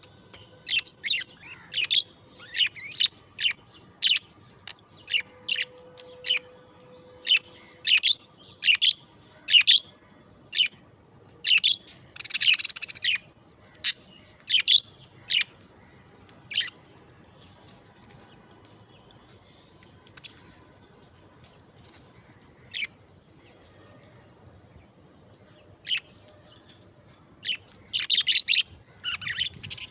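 Budgerigars chirping: a run of short, sharp chirps for about half the time, then a few scattered calls, and a new burst of chirping near the end. About twelve seconds in there is a longer, scratchier call.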